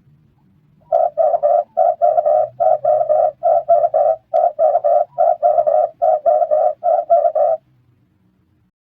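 Red turtle dove cooing: a fast run of short, low coos in quick groups of two or three that stops about a second before the end.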